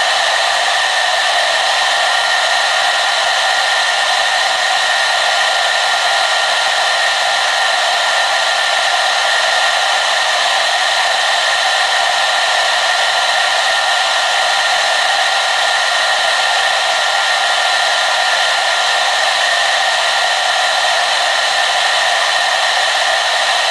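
Hair dryer running steadily on one setting, a constant rushing whoosh of blown air with a faint steady whine in it.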